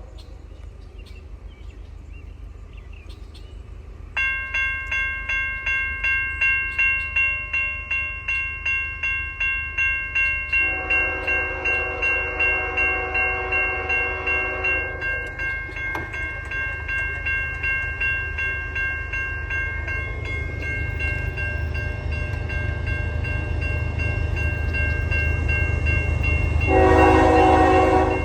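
Level-crossing warning bells start ringing about four seconds in, with a steady rapid clang. Meanwhile an approaching CN freight locomotive sounds its K5HL air horn: one long blast in the middle and another starting near the end. Under it all the train's rumble grows louder as it nears.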